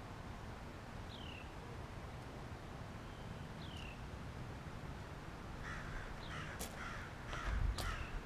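Birds calling: a thin, downward-sliding chirp repeats every second or two. In the second half comes a run of harsher, quick calls with a few sharp clicks among them.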